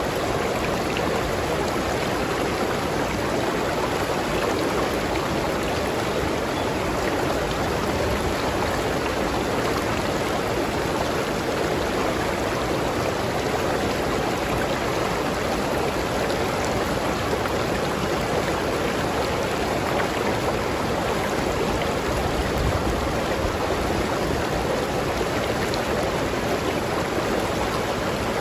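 River water flowing over rocks, a steady rushing and burbling without letup.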